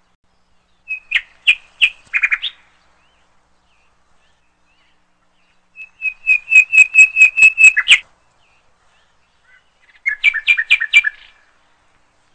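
A songbird singing three short phrases of quick repeated chirps, the middle one the longest at about ten fast notes, with silence between the phrases.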